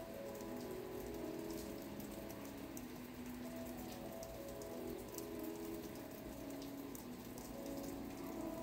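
Rain falling steadily, with many individual drops ticking sharply over an even hiss. Soft, low held notes shift slowly underneath.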